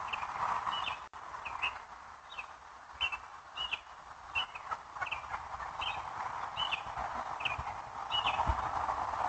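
Short high chirps repeated evenly, about one every two-thirds of a second, over a steady hiss.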